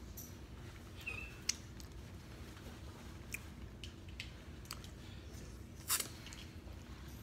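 Close-up mouth sounds of a person chewing a mouthful of taco with the mouth closed. Scattered short wet clicks and smacks, the loudest about six seconds in, sit over a faint steady low hum.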